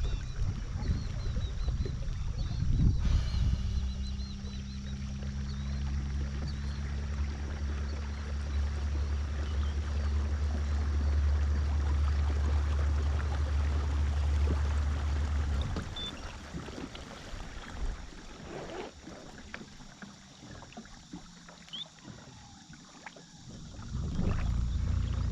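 A boat motor running with a steady low drone, which starts about three seconds in and stops abruptly about two-thirds of the way through. Small birds chirp in the first seconds.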